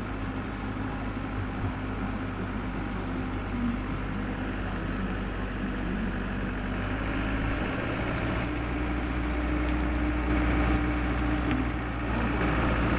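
Engine of a small tourist road train running steadily under way. About eight seconds in, its note steps up slightly.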